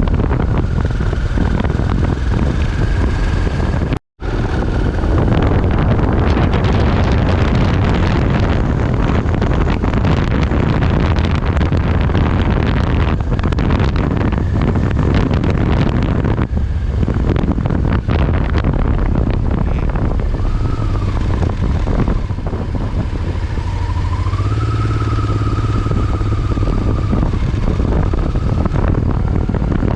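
Motorcycle riding at speed: wind buffeting the microphone over the engine running underneath, with the engine note rising about two-thirds of the way through. It cuts out for a moment about four seconds in.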